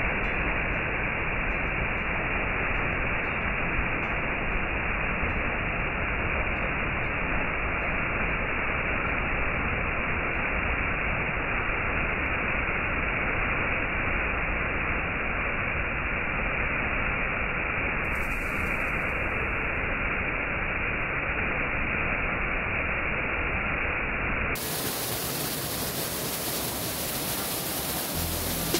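Steady, loud rush of a waterfall close by, an even noise with no rhythm or tone. Near the end it abruptly turns brighter and hissier.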